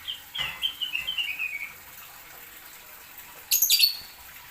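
A bird calling a quick run of about eight whistled notes that step down in pitch, followed a couple of seconds later by a short, sharp high chirp.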